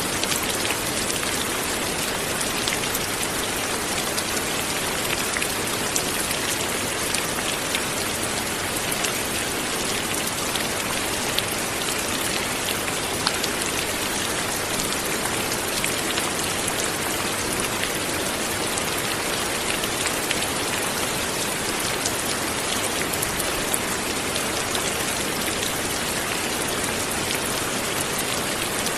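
Light, steady rain falling, an even hiss dotted with fine drop ticks.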